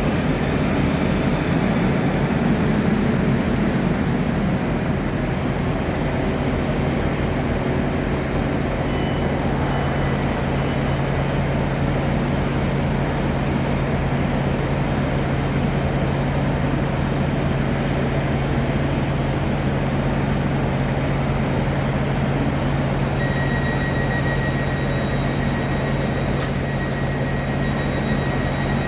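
A train running at a station: a steady rumble with a low hum. Near the end a thin high steady whine joins in, with one sharp click.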